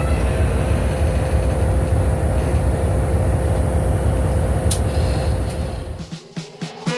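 Passenger train in motion: a steady rumble of wheels on rail with a faint steady whine, fading out near the end.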